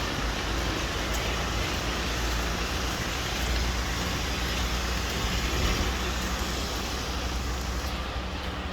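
Steady road traffic on a rain-wet street: an even hiss over a low rumble.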